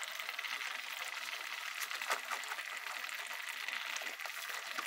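Beef and zucchini stir-fry sizzling gently in a nonstick pan, a steady soft hiss with a few light ticks.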